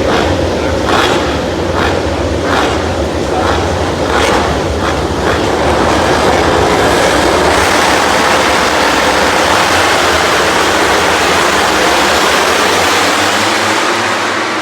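A field of MotoGP racing motorcycles' four-stroke engines at a race start. The engines rev in repeated sharp blips for the first few seconds, then merge into one loud continuous howl as the pack accelerates away, easing off near the end.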